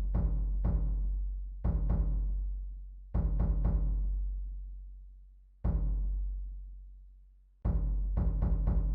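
Deep, booming drum music: slow groups of three or four quick strikes, each group fading away in a long low boom before the next. Near the middle comes a single strike that is left to ring out longer.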